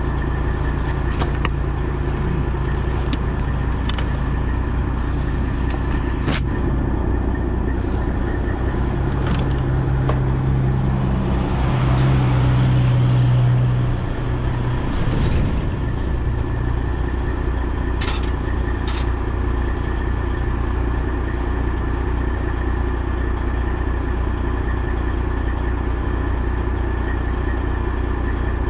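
Semi truck's diesel engine running steadily, with a louder low drone swelling in the middle and a few sharp clicks scattered through.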